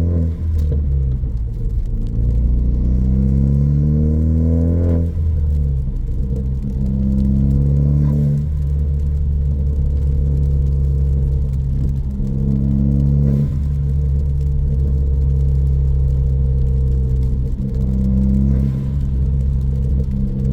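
2014 Ford Focus ST's turbocharged 2.0-litre EcoBoost four-cylinder, with a high-flow catted downpipe and a straight 2.5-inch exhaust, pulling with rising revs for about five seconds, then a gear change. After the shift it cruises at fairly steady revs with slight rises and dips.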